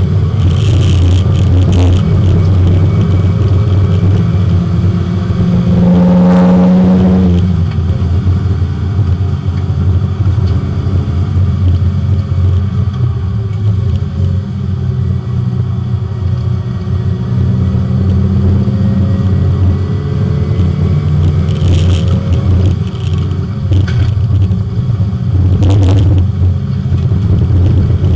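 Porsche 924 race car's four-cylinder engine heard from inside the car on track, running hard with its pitch rising and falling as it accelerates and lifts off, revs dropping sharply about seven seconds in. A few short clatters sound over it near the start and again towards the end.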